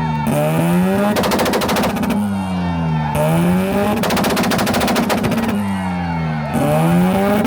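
Tuned car engine revved repeatedly against a two-step launch limiter: about three bouts of rapid-fire popping and banging from the exhaust, with the revs dropping and climbing again in between.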